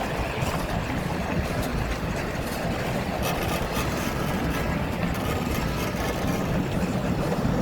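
Steady low rumbling vehicle noise, with a few faint ticks around the middle.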